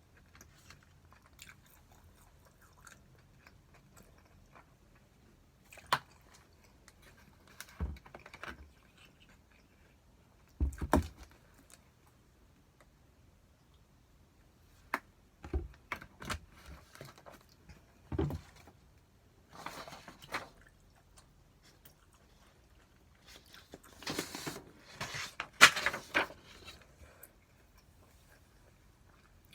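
A person eating spicy stir-fried pork (jeyuk bokkeum): chewing, with scattered short clicks and knocks and quiet gaps between them. The busiest, loudest stretch comes about 24 to 26 seconds in.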